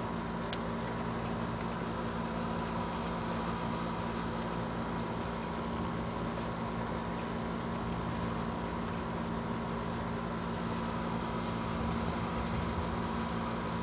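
Steady background hiss with a constant low hum, swelling slightly near the end; no thunderclap or rumble.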